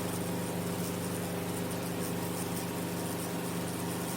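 Enstrom F28F piston helicopter in steady flight: an even drone of engine and rotor with a stack of constant low humming tones, holding the same pitch and level throughout.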